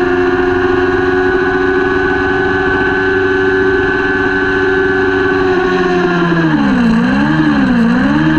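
Kawasaki Ninja 400 racing motorcycle engine running loud and steady at high revs. About six seconds in, the revs drop, then rise and fall several times.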